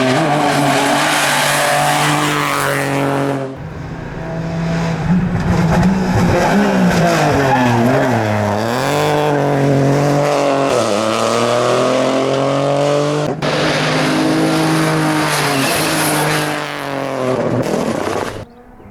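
Rally car engine running hard at high revs, its pitch dropping and climbing again a few times as the driver lifts, shifts down and accelerates. The sound cuts off abruptly about three times.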